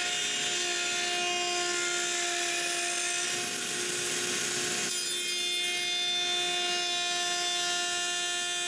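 Router on a router table running with a pattern bit, cutting wood: a steady motor whine over a cutting hiss that grows heavier for a couple of seconds midway.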